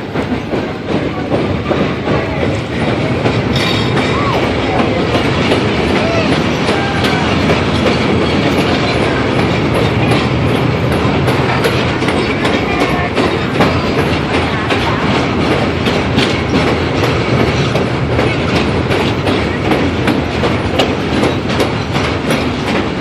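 Passenger train cars rolling along the track, heard from on board: a steady rumble with rapid, irregular clicking of the wheels over the rails.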